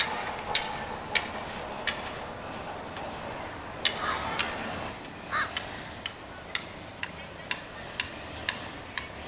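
American crows cawing a few times, with sharp ticking clicks about twice a second.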